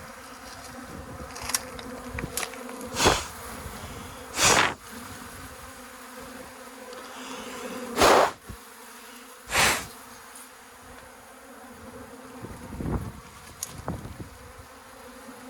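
Honeybee swarm buzzing steadily, broken by four loud short puffs of air as the beekeeper blows toward the bees, plus a few fainter ones.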